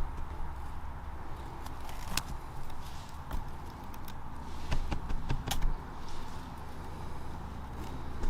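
Footsteps on the forest floor, crunching leaf litter with scattered sharp snaps of twigs, over a steady low rumble on the microphone.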